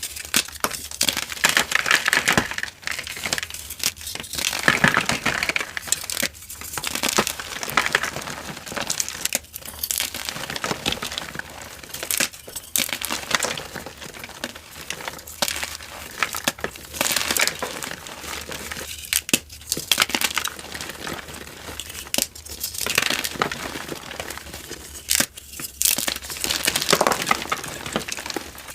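Dyed gym chalk being crumbled and crushed: a dense, crackly crunching in stretches of a few seconds, with short breaks between them.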